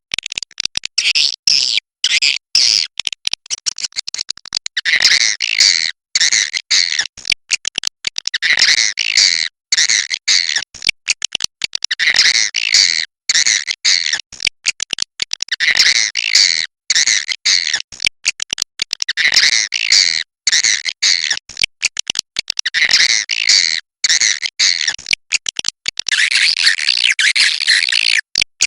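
Swiftlet 'inap' (roosting) call: dense, rapid high twittering chirps in clusters that swell every three to four seconds. This is the kind of call played in swiftlet houses to draw swiftlets in to roost.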